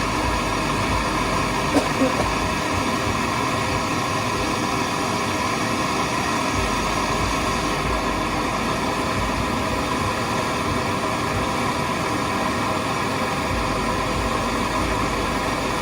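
A handheld torch flame burning with a steady hiss while heating a rusty exhaust stud that was skipping as it was turned.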